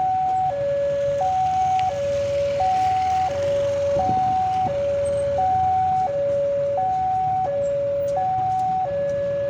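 Railway level-crossing warning alarm sounding its two-tone electronic signal, a low and a higher tone alternating about every 0.7 s, the warning that a train is approaching while the crossing gates are closed. A low rumble runs underneath.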